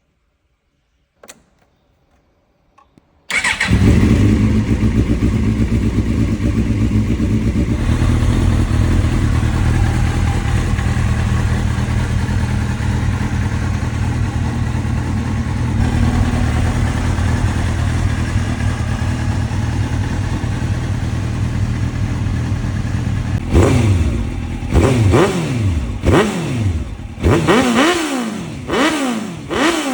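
2001 Suzuki GSX-R750 K1's inline-four engine through a Yoshimura exhaust. After a single click, the engine starts about three seconds in and idles steadily. Near the end come several quick throttle blips, each rev climbing and falling back to idle.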